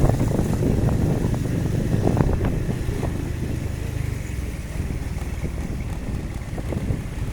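Motor vehicle travelling along a city street: a steady low engine rumble with road noise, easing slightly about three seconds in.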